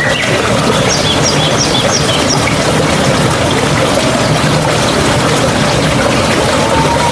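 Steady flow of a trickling mountain stream. A bird calls a quick run of about six short high notes about a second in.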